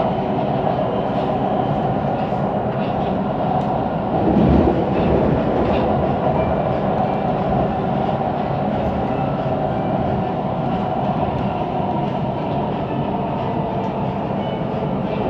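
Siemens Inspiro metro train running between stations, heard from inside the carriage: a steady rolling rumble of the wheels on the rails with light clacking, and a brief louder surge about four seconds in. This rolling noise is the one the rider calls weird.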